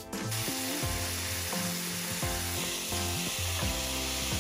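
Diced pears frying in butter with cinnamon, sizzling steadily from a moment in, while a wooden spatula stirs and scrapes them around the frying pan.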